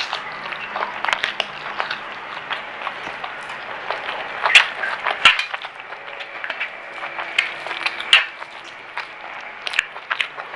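Close-miked eating: irregular crunching and chewing of crispy fried food, with sharp crackly bites and the loudest crunches about four and a half and eight seconds in.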